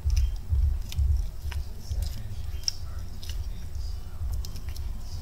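A person chewing a mouthful of crispy breaded fried chicken tender close to the microphone: dull thuds about twice a second with scattered crunchy crackles.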